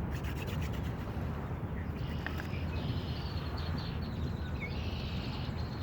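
A wooden hand drill spindle is spun back and forth in a fireboard notch: a fast, scratchy rubbing for about the first second and a half, with no smoke coming. After that, birds chirp over a steady low background noise.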